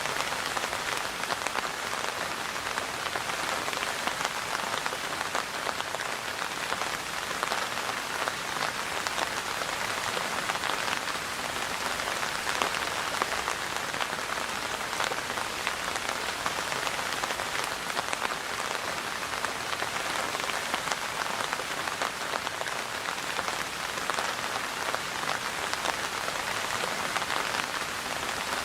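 Steady rain falling on a surface, with a dense patter of individual drops.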